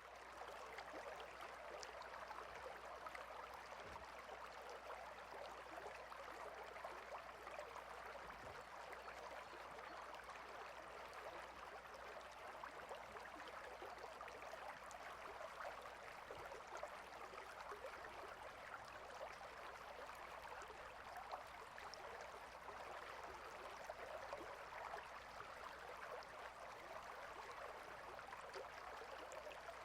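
A small stream of water flowing and babbling steadily, faint and even throughout.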